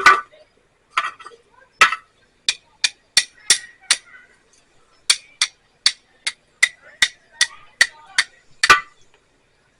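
Flint and steel being struck over and over, each strike a sharp metallic scrape-click, about two or three a second with a short break in the middle, throwing sparks onto char cloth.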